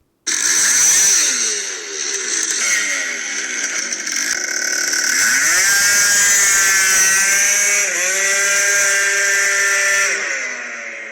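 Tuned two-stroke 70cc Minarelli scooter engine with a Top Performances TPR 70 kit and Pollini Evolution expansion exhaust, revving hard. The engine is blipped up and down a few times, then climbs to a high, held pitch near peak revs, dips briefly, and winds down near the end.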